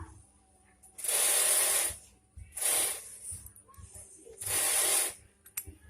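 Three hissing bursts of spray on a Juki 1850 bartack sewing machine under repair: one of about a second, then two shorter ones.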